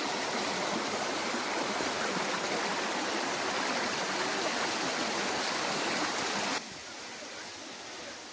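Waterfall rushing steadily, a dense even roar of falling water. About six and a half seconds in it drops suddenly to a quieter rush of water.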